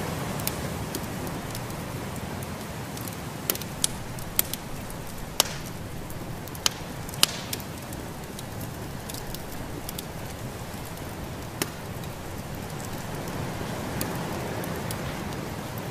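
Wood fire crackling in a fireplace, with a handful of sharp pops scattered through the first two-thirds, over a steady rushing noise of snowstorm ambience.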